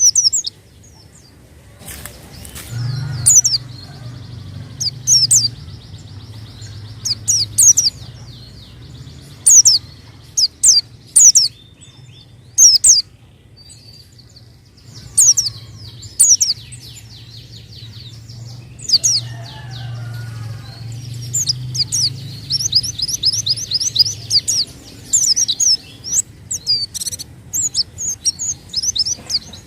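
White-eye (pleci) singing: rapid runs of short, high, sharp chirps coming in bursts with short pauses between them. A low steady hum lies underneath from about three seconds in until near the end.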